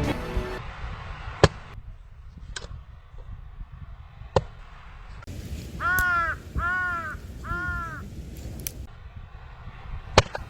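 A crow cawing three times in quick succession, each caw rising and falling in pitch, about halfway through. Several sharp clicks or knocks are scattered through it, the loudest about a second and a half in, over a low steady hiss.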